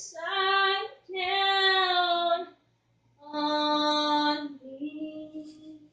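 Unaccompanied high singing voice holding long sustained notes in three phrases with short breaks, then a softer, lower held note near the end.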